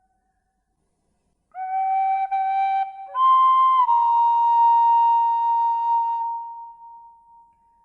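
Slow, calm music on a flute-like wind instrument, not white noise. After a silence a held note enters about a second and a half in, a higher note follows a little past three seconds, bends slightly down, and is held long, fading away near the end.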